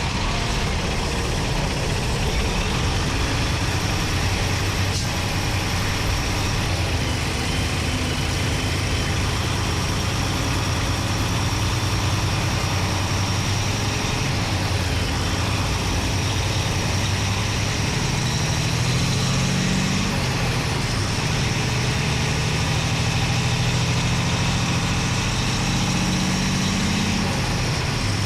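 Paccar MX-13 diesel engine of a Peterbilt 389 heard close up from inside the engine bay, running steadily. Its note climbs twice and drops back each time, once about two-thirds of the way through and once near the end.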